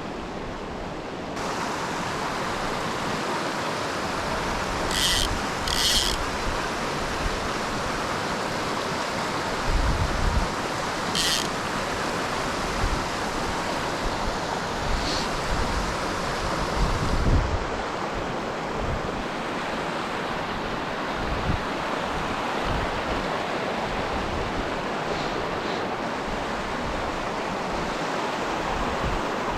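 Mountain torrent rushing steadily over rocks, a constant hiss of water that gets a little louder about a second in. A few short high chirps come through a third of the way in, and there are low bumps of wind on the microphone.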